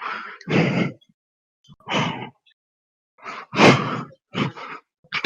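A man breathing heavily and grunting in about six short, harsh bursts with pauses between them.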